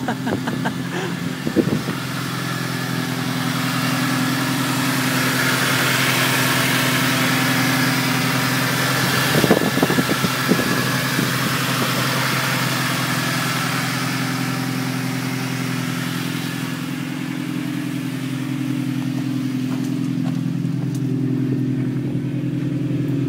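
Supercharged 2.7-litre 3RZ-FE four-cylinder of a 1999 Toyota 4Runner idling steadily with no load, the engine note even throughout. A brighter hiss rides over the idle through the first two-thirds, then fades.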